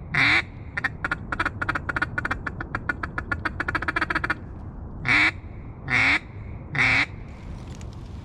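A hunter's mallard duck call blown in a calling sequence: a loud quack, then a fast feeding chuckle of about ten short notes a second lasting a few seconds, then three loud hen quacks about a second apart.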